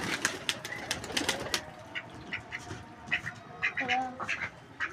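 Backyard flock of ducks and pigeons calling: short duck quacks and a pitched call about four seconds in, among many quick sharp clicks and taps.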